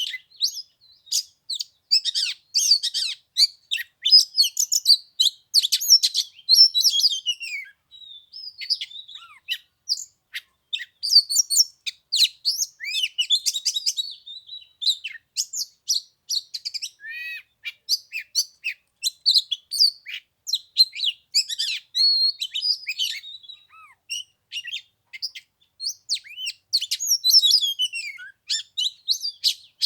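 Oriental magpie-robin singing a long, varied song of clear whistles, chirps and quick clicking notes, broken by short pauses.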